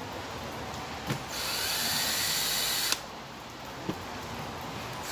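Handheld power drill-driver running for about a second and a half, its whine rising as it spins up and then holding steady before cutting off sharply, driving in a bolt during chainsaw reassembly. A click comes just before the run and another about a second after it.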